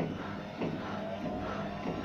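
Zanussi ZWH7148P washing machine knocking in the drum as it turns, a regular knock about every 0.6 seconds over the steady hum of the motor. This is the fault being shown, a knock that should not be there.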